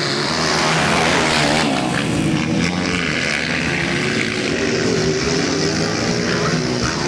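Motocross motorcycle engines running and revving, their pitch rising and falling continuously.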